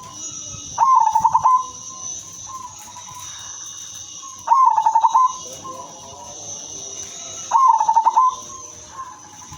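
Zebra dove cooing: three short bursts of rapid, pulsed coos, each under a second and about three seconds apart, over a steady faint high hiss.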